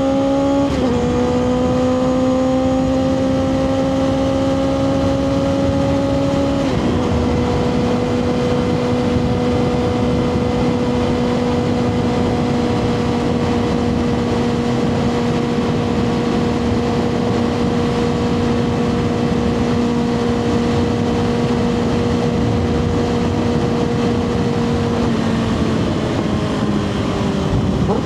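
2024 Kawasaki ZX6R inline-four with a Two Brothers slip-on exhaust, pulling under load with two quick upshifts in the first seven seconds. It then holds a steady cruising note for most of the stretch and eases off near the end, the note falling. Wind rush runs under the engine.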